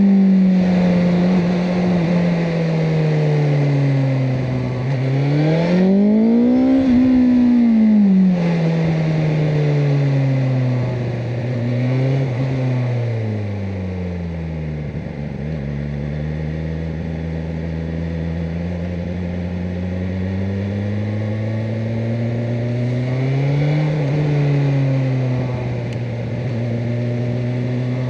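BMW M1000R Competition's inline-four engine cruising. The revs rise to a peak about seven seconds in, fall away, then settle lower and steady, with a brief rise a little before the end.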